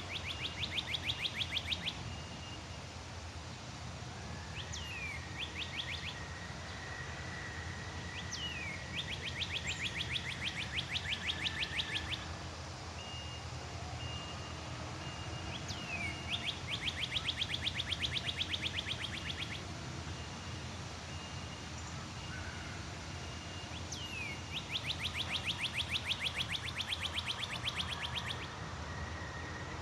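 A songbird repeats one phrase about every eight seconds: a quick falling whistle, then a rapid trill of about three seconds. Under it run a faint steady high tone and low outdoor background noise.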